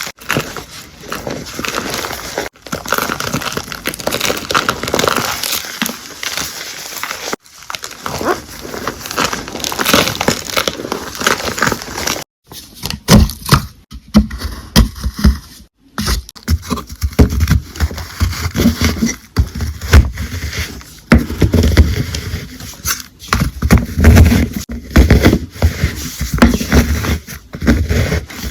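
Gym chalk being crushed and crumbled, crackling and crunching, in a run of short clips cut together. The crunches in the second half are heavier and deeper.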